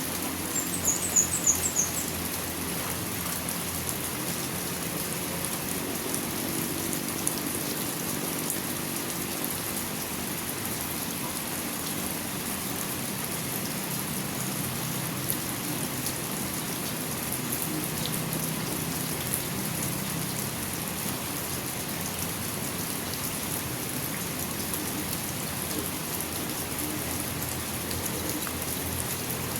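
Steady rain falling, an even, unbroken hiss. About a second in comes a quick run of short, high-pitched chirps.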